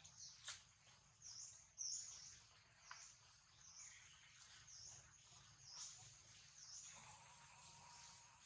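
Faint outdoor background of high-pitched chirping repeating every second or so, with a few soft clicks and rustles from dry leaves.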